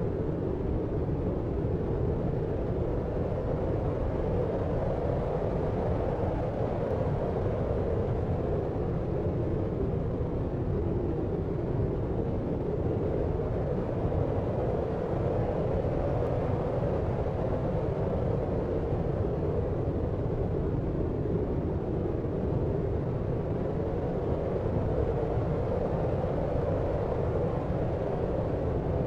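Deep white noise for sleep: an even, unchanging hiss-like rumble weighted toward the low end, with no separate events.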